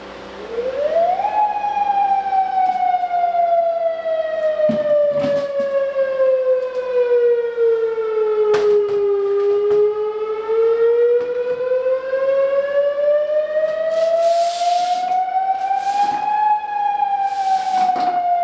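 A siren wailing in one long slow cycle. It climbs quickly at the start, sinks slowly for several seconds, climbs slowly again and starts to fall near the end. A few knocks and short bursts of clatter sound along with it.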